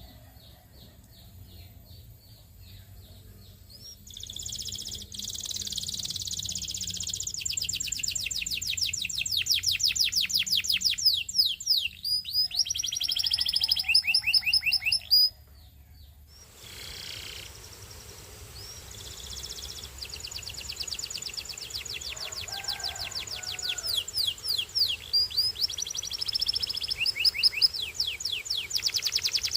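Domestic canary singing long song phrases of rapid trills, fast runs of repeated high notes, starting a few seconds in, breaking off about halfway and then taking up again. A faint steady low hum lies underneath.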